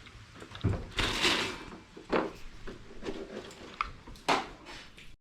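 Objects being handled and set down: several clattering knocks, with a brief scraping rustle about a second in.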